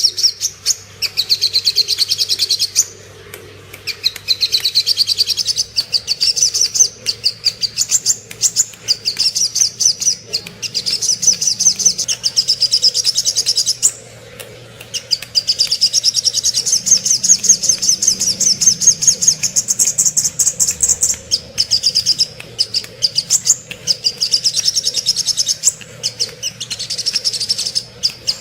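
Spiderhunter (sogok ontong) song: rapid runs of sharp, high chirps in phrases of a few seconds each, with short pauses between them. A faint steady hum lies underneath in the first half.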